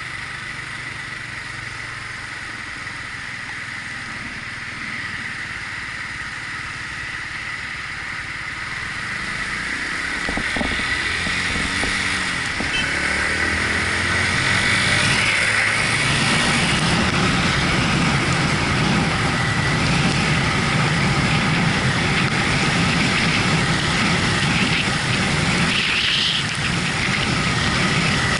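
Yamaha MT-125's single-cylinder engine running on a ride in the rain, fairly quiet at first. About ten seconds in the sound builds up over a few seconds as the bike gathers speed, then stays loud and steady.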